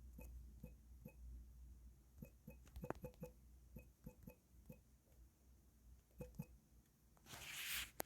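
Near silence with faint, scattered light taps, and a short hiss near the end.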